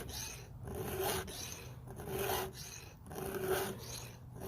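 Round chainsaw file rasping across a cutter tooth of an Echo CS-590's 20-inch saw chain during hand sharpening. It makes about four even strokes roughly a second apart, each with a faint metallic ring, while a burr forms on the tooth's edge.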